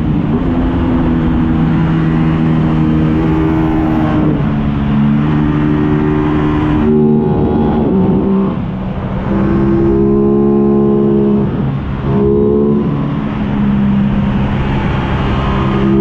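Aprilia RS660's parallel-twin engine running hard on the move, its note shifting up and down in pitch several times as throttle and gears change, with two brief drops in level about eight and a half and twelve seconds in. Wind rush underneath.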